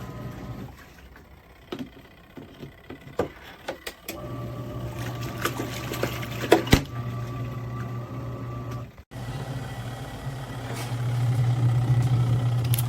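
Small twin-tub washing machine's motor running with a steady low hum, joined by scattered knocks and clatters in the first half. The hum breaks off abruptly about two-thirds of the way through, then comes back and grows louder near the end.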